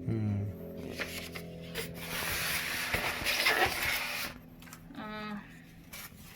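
Packaging and box contents being handled: rustling and crinkling with scattered light clicks, heaviest for about two seconds in the middle.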